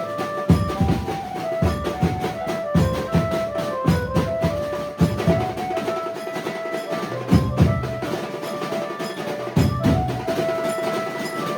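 Banjo band playing a loud, fast melody on the Indian banjo over driving drum beats, with the tune moving in quick short notes above steady, repeated drum strokes.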